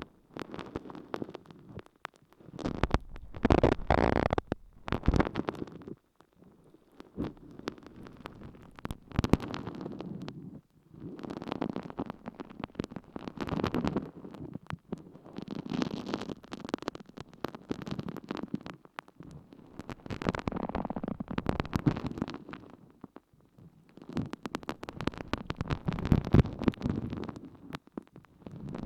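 Water-soaked sponge squished and rubbed against an ear microphone. It gives wet squelching strokes with crackles, in irregular bursts separated by short pauses.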